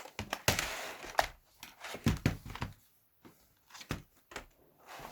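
Computer keyboard being handled as its teardown begins: irregular sharp plastic clicks and knocks, with a scraping rustle in the first second.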